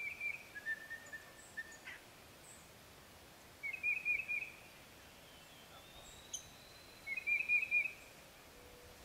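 Faint bird calls in a quiet field: two short chirping phrases, about four seconds in and again about seven seconds in, with a thin held note near the start.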